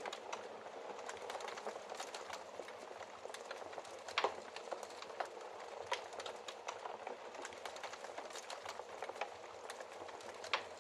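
Wood fire crackling in a fireplace: a steady hiss of small crackles with scattered sharp pops, the loudest about four seconds in and another near the end.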